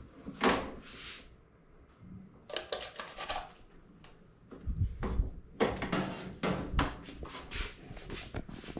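Hard parts being handled and moved about during a washing-machine repair. Irregular knocks, clatters and scrapes come in clusters, with a short lull about two seconds in and another near four seconds.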